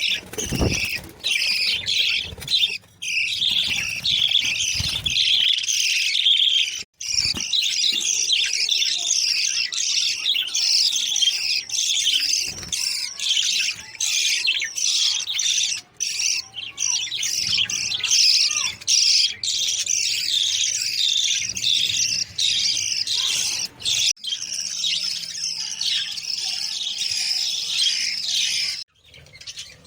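Many small birds chirping and twittering at once, a dense continuous chatter of high, quick notes, broken by a few sudden brief gaps.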